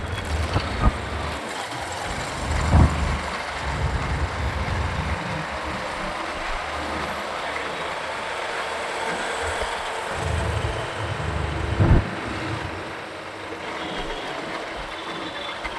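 Motorcycle riding through city traffic: steady road, engine and traffic noise with wind rumbling on the microphone, and two short thumps about three and twelve seconds in.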